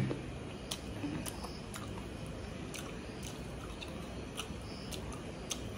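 Close-up chewing of pork and rice: scattered soft wet mouth clicks at irregular intervals over a low steady background.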